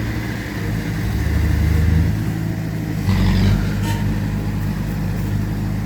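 Diesel engines of heavy earthmoving machinery (bulldozer and dump trucks) running steadily. The engine note rises a little over a second in and steps up louder about three seconds in, with a brief rush of noise.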